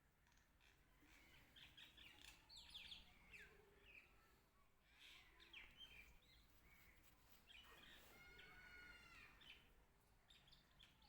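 Faint bird chirps and calls over near silence: short quick chirps throughout, with a longer pitched call about eight seconds in.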